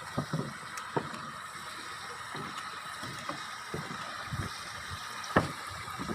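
Irregular footsteps and soft thumps of someone walking on a trail, with a few sharp clicks, the loudest a little over five seconds in, over a steady background hiss.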